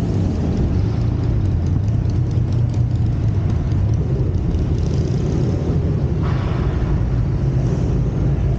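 Motor engine running steadily: a low, even rumble.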